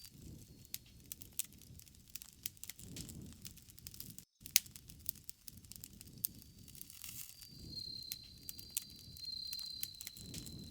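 Campfire crackling: frequent sharp pops and snaps over a low flutter of burning wood. A thin, steady high tone joins about seven and a half seconds in, and the sound cuts out for a split second near the middle.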